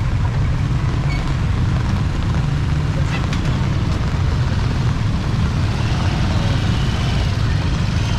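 Typhoon rain and wind: a constant hiss of rain over a steady low rumble.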